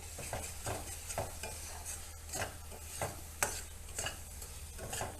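A cooking utensil stirring and scraping thick spice paste around a kadai, roughly two scrapes a second, over a faint sizzle of frying. The masala is being fried down with oil until the raw smell goes.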